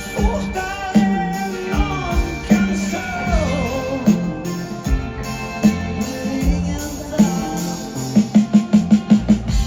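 Live rock band playing, with gliding pitched lines over the beat and a quick run of drum hits near the end.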